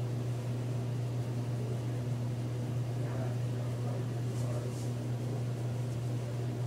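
Steady low mechanical hum, with a few faint brief rustles about four to five seconds in.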